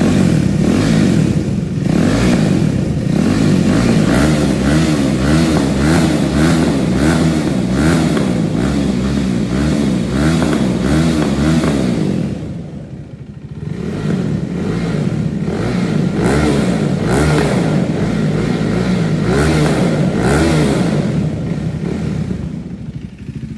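KTM RC390's single-cylinder engine revved repeatedly through an aftermarket slip-on exhaust, pitch climbing and falling in quick throttle blips. It drops back briefly about halfway, then revs again.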